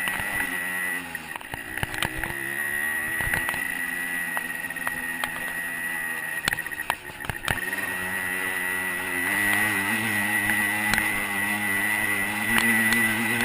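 125 cc two-stroke dirt bike engine running while riding, its pitch rising and falling with the throttle, with frequent short knocks and rattles. About nine seconds in the engine note steadies and gets louder.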